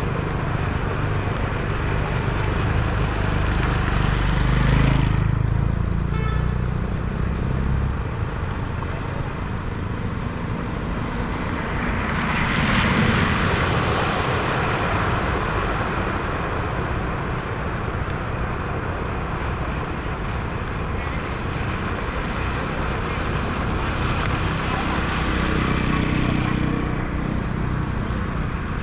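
Vehicles driving through floodwater at a ford: a low engine rumble throughout, with three swelling rushes of water noise as vehicles pass, near the start, in the middle and near the end.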